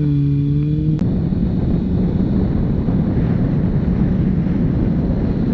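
Sport motorcycle under way, heard through a helmet camera: wind rushing over the microphone with the engine running underneath. About a second in, a steady hum cuts off with a sharp click.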